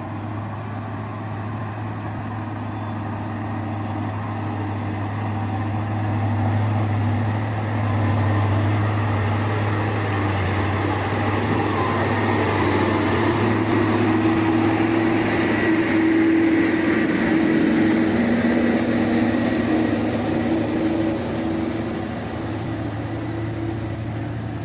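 A truck's diesel engine running steadily under load. It grows louder toward the middle and later part, then eases off near the end.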